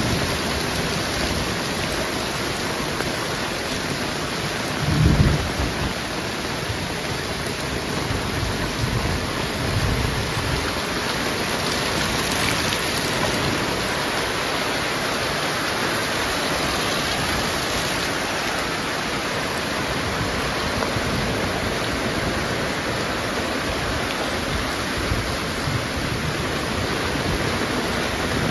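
Heavy rain pouring steadily, with a brief low rumble about five seconds in and a fainter one around ten seconds in.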